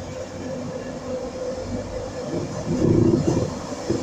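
InterCity 225 electric train with a Class 91 locomotive pulling out of the station: a steady rumble with a faint steady hum, growing louder about three seconds in.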